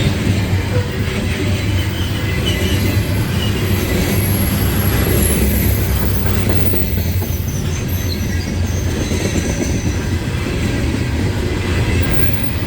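Loaded coal hopper cars of a freight train rolling past: a steady heavy rumble of steel wheels on rail, with a faint high wheel squeal above it.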